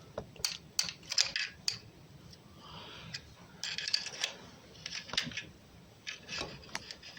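Irregular small metallic clicks and clinks in several short clusters, from hands and tools working among the parts of the engine's timing-chain drive while checking for a broken chain damper.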